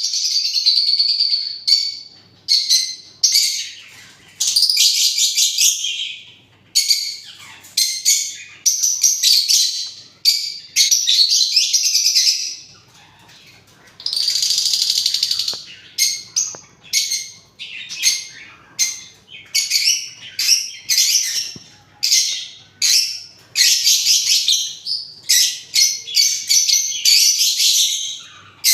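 Parrots calling: a dense, shrill run of short chirps and screeches, with a few longer drawn-out calls mixed in.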